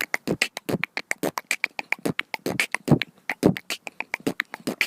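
Pet parrot beatboxing: a fast, unbroken run of clicks and pops, about ten a second, some with short squeaky tones.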